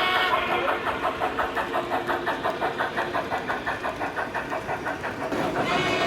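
An O scale model locomotive's onboard sound system playing a steady, rhythmic engine or chuff sound at about five to six beats a second, with a chime-like multi-tone horn signal sounding briefly at the start and again near the end.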